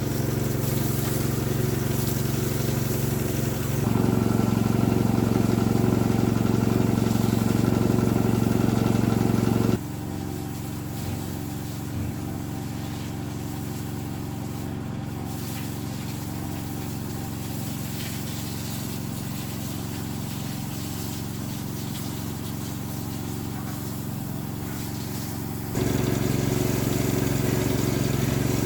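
Small engine-driven water pump running steadily after its repair, now starting and keeping running. Its level jumps up about four seconds in, drops sharply near the middle and rises again near the end.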